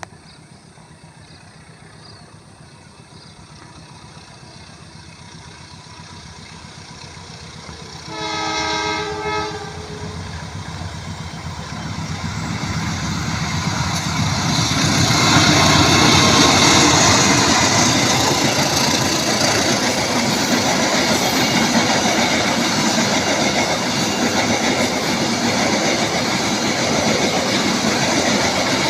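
Train approaching and passing close. A slowly building rumble, then a single horn blast of about a second and a half about eight seconds in. From about halfway through, the locomotive and cars go by, loud and steady.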